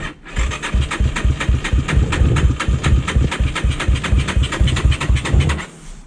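Yamaha TT-R230 single-cylinder four-stroke engine cranking on its electric starter in an even, fast beat for about five and a half seconds, then stopping near the end without firing. It has fuel sprayed in but doesn't catch; the owner finds a major compression leak, worn valves or rings.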